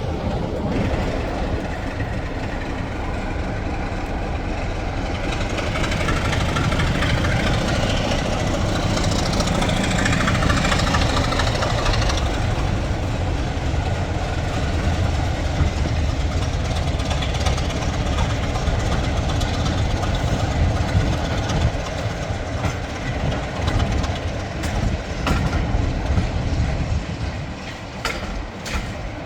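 Heritage diesel locomotive engine running under the train, getting louder about six seconds in, with the clicking of carriage wheels over rail joints.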